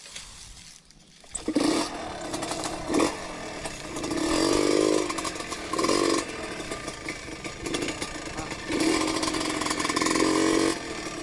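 Trail motorcycle engine revving hard in repeated bursts, the throttle opened and eased again and again, starting about a second and a half in, with the longest, loudest pulls near the middle and near the end.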